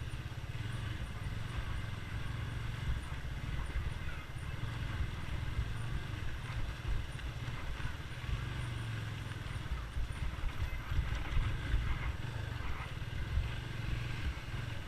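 Low, uneven rumble of a motorcycle running at low speed.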